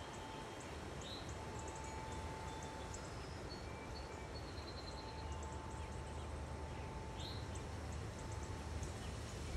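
Small backyard birds chirping faintly, with many short high chips scattered throughout and a couple of quick swept calls, over a steady low background rumble.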